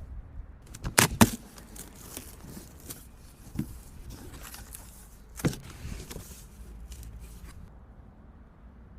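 Handling noise from unpacking: a quick pair of sharp knocks about a second in, then a few lighter clicks and knocks over a low, steady background rumble.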